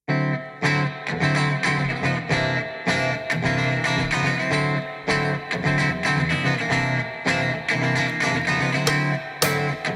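Instrumental funk-rock intro: electric guitar playing a rhythmic riff over bass guitar and drums, starting abruptly after silence.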